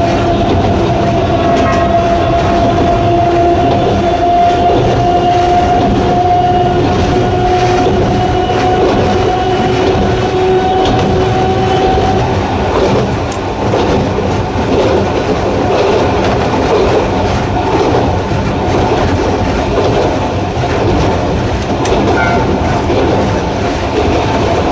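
Narrow-gauge electric train of the Sangi Railway Hokusei Line running, its nose-suspended traction motors whining with a slowly rising pitch as it gathers speed. The whine stops about twelve seconds in, leaving the rumble and clatter of the wheels on the rails.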